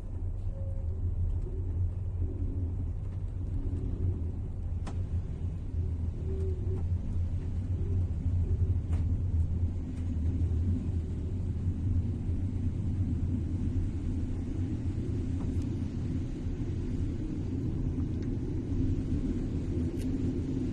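Steady low rumble of a passenger train moving slowly, heard from inside the carriage as it leaves the station. A few faint sharp clicks come several seconds apart.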